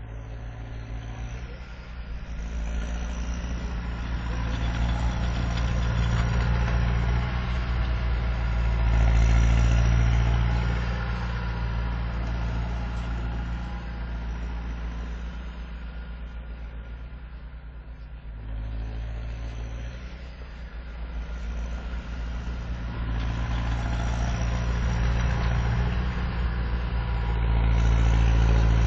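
Massey Ferguson 5455 tractor's turbo diesel engine working under load while snowblowing, its turbo whistle rising and falling with the engine. The load builds twice, peaking about a third of the way in and again near the end, with a lull around the middle.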